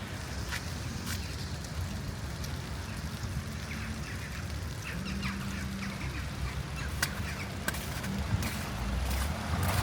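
Water birds giving a run of short, falling calls, clustered mostly in the middle few seconds, over a low steady city rumble and scattered footstep clicks.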